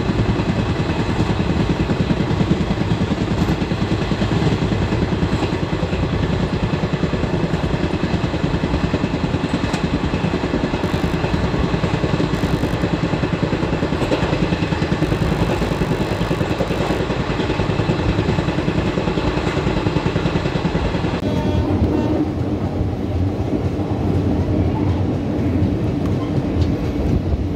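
Running noise of an ICF passenger coach at speed, heard at its open door: a loud, steady rumble of wheels on rail mixed with rushing air. About 21 seconds in the hiss drops away suddenly and the sound turns lower and rougher.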